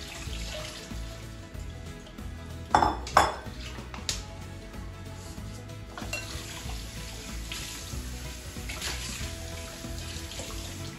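Dishes and cutlery clinking as they are handled, with a few sharper clatters about three and four seconds in.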